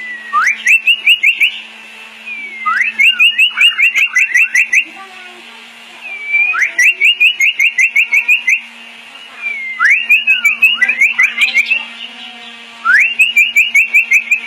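White-rumped shama (murai batu) singing: one phrase repeated five times, about every three seconds, each a sliding whistle followed by a fast run of about eight sharp whistled notes. A faint steady low hum runs underneath.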